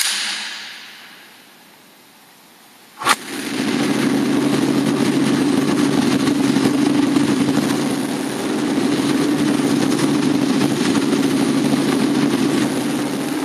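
Yamaha WR400F's four-stroke single-cylinder engine cold-started with the kick-starter: after a sudden noise right at the start, a sharp kick about three seconds in and the engine catches, then runs steadily.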